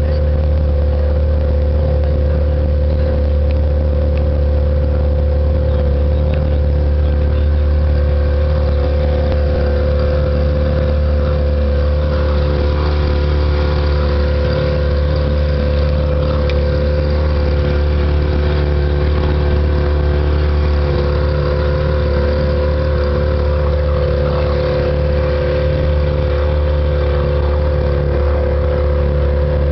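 A motor engine running steadily at an even speed, a constant low hum with steady higher tones above it.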